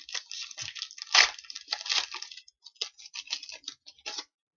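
Plastic-foil trading card pack wrapper being torn open and crinkled by hand: a dense run of irregular crackles, loudest about a second in, thinning out toward the end.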